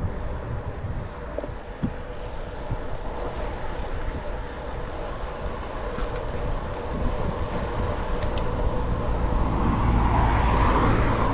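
Wind rushing over the microphone of a bicycle riding along, with road noise, growing louder near the end.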